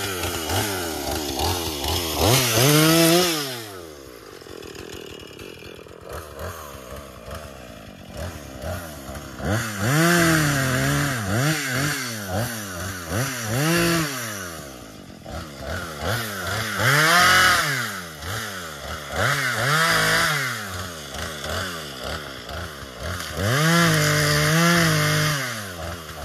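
Small gasoline engine on a handheld power tool running and being revved up and dropped back about half a dozen times, each rev a rising then falling whine lasting a second or two, with a quieter idling stretch early on.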